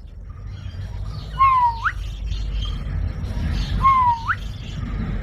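A parrot calling twice, about two and a half seconds apart. Each call is a short held note that ends in a sharp upward sweep, heard over a steady low rumble.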